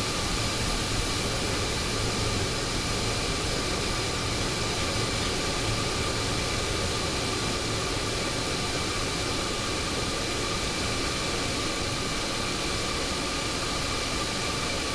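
Steady cockpit noise of a Boeing 727 on approach with landing gear down and flaps extended: an even rush of airflow over the airframe with engine hum and a few faint steady whining tones.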